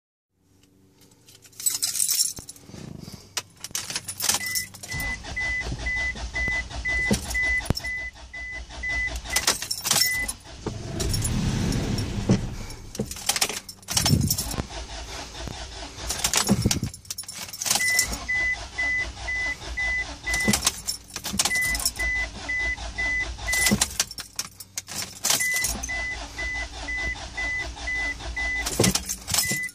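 2004 Isuzu Rodeo's 3.5 L V6 cranking on the starter in three long attempts without catching, with a steady beeping chime during each crank and keys jangling at the ignition between tries. The engine has no spark at any plug wire.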